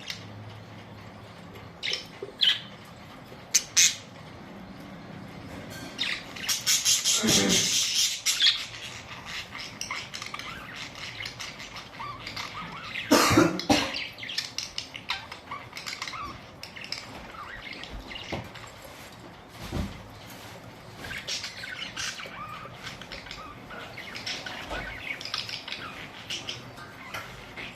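Budgerigars chirping and chattering in many short, sharp calls, with a dense run of chirps about a quarter of the way in and a loud squawk about halfway.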